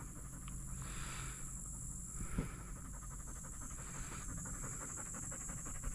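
A dog panting steadily, with a steady high buzz of insects behind it and one soft knock about two and a half seconds in.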